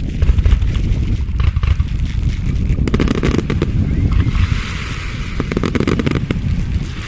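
Aerial fireworks going off: a quick run of bangs over a constant low rumble, giving way about four seconds in to a dense crackling hiss.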